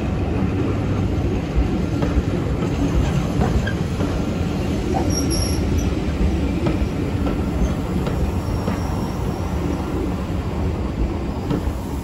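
Railway passenger coaches rolling past at low speed, their steel wheels rumbling and clicking over the rail joints, with a brief faint wheel squeal about five seconds in.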